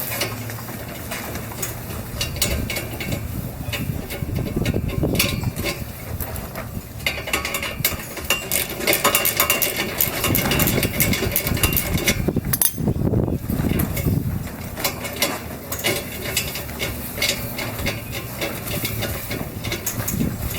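Hand tools working on a car's exhaust joint: quick runs of ratchet-like clicking and metal clanking, thickest in the middle, as the flange is unbolted to get the old exhaust gasket out.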